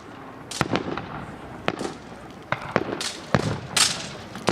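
Fireworks going off: a quick, irregular series of about eight sharp bangs, with a longer crackling burst near the end.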